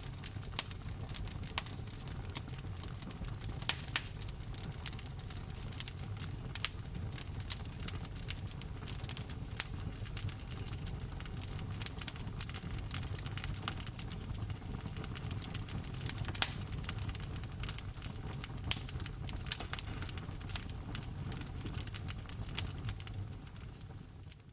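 Wood fire crackling: irregular sharp pops and snaps over a steady low rumble of burning logs, fading out near the end.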